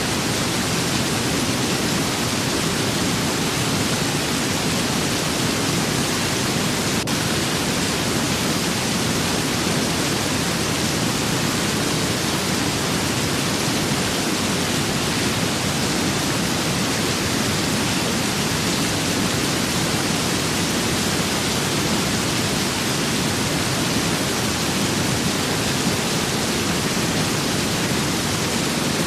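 Steady rain with wind, an even, unbroken hiss at a constant level.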